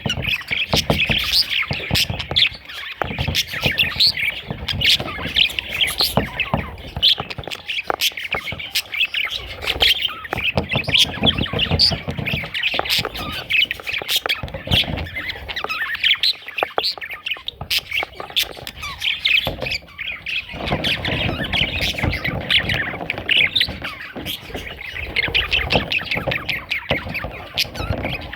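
Budgerigar chattering and warbling continuously: a dense stream of rapid chirps, clicks and squawky notes, with stretches of low rumbling noise underneath at times.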